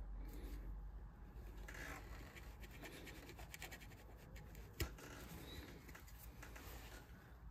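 Carving tool scraping and cutting wood in short, faint strokes, with one sharp click about five seconds in.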